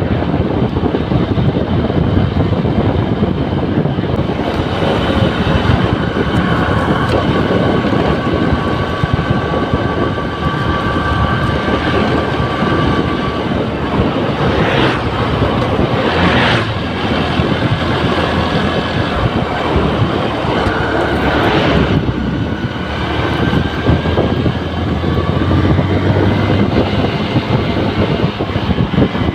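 Honda New Megapro's single-cylinder engine running under way, with wind rushing over the microphone and a few brief louder swells of passing traffic partway through.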